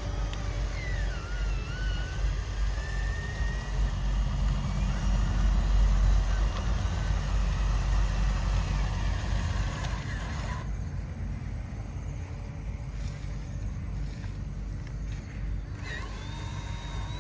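Electric motors and gearboxes of small hand-built RC construction trucks running over dirt, with a steady low rumble and thin whines that rise and fall.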